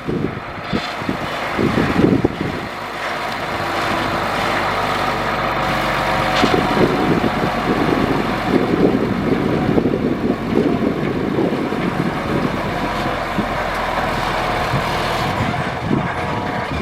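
Heavy diesel earthmoving machine running, a continuous engine drone with a few sharp clanks near the start.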